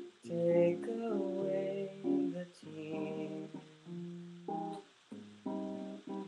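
Guitar chords played with a sung melody over them, in short phrases that change every second or so.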